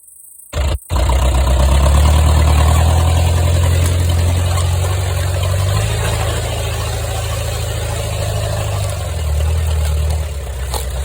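Daihatsu Taft 4x4's engine running at low, steady revs. It starts suddenly about half a second in, breaks off briefly just after, and near the end its pitch dips slightly.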